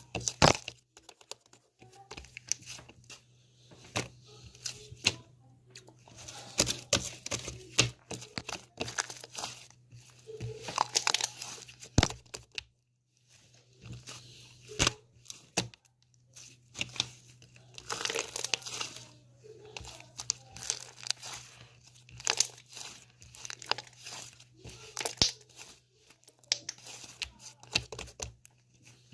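Irregular crinkling and tearing of a thin material such as paper or plastic, in short bursts broken by sharp clicks and brief pauses, over a faint steady low hum.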